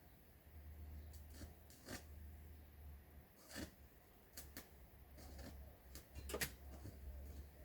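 Faint, scattered light clicks and taps, about eight of them with the sharpest one near the end, over a low steady rumble.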